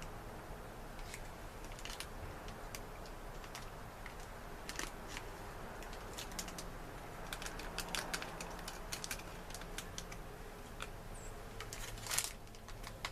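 Irregular light clicks and taps over a low steady background, thickest about halfway through. A short, louder scrape or rustle comes near the end.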